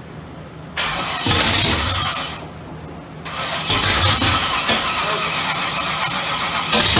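Chevrolet Nova engine being cranked on the starter in two start attempts, the first lasting about a second and a half and the second about four seconds.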